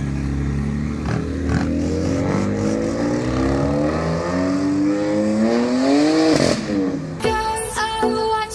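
Ferrari F12 N-Largo's V12 engine accelerating hard, its note climbing steadily for several seconds, then rising sharply and dropping away about six and a half seconds in. Music comes in near the end.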